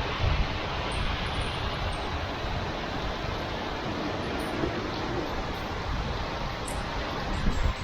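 Heavy rain falling in a steady hiss, with a low rumble underneath and a few low bumps near the end.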